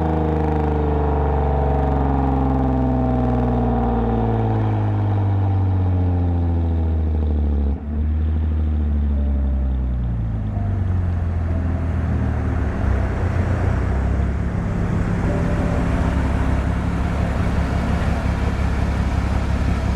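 Exhaust of a 2010 Lexus IS250 AWD's 2.5-litre V6 with an aftermarket full exhaust and valved mufflers, its pitch falling steadily as the revs drop off throttle for about eight seconds. After a brief dip near eight seconds in, it settles into a steadier, rougher drone.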